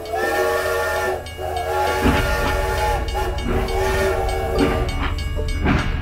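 Steam-train whistle sounding a chord in repeated blasts of about a second each, with a hiss. A low rumble and clatter of a toy train running join about two seconds in.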